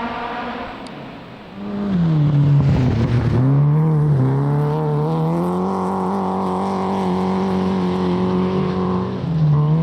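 Rally car engine passing close: its note drops about two seconds in as it slows, then climbs and holds steady under power, dipping and rising again near the end.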